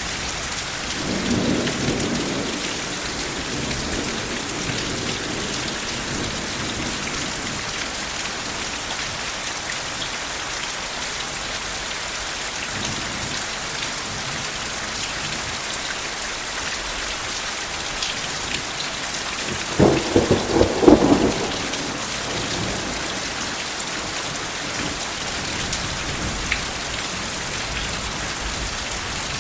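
Steady heavy rain with thunder: a low rumble a second or two in, and a louder crackling roll about twenty seconds in.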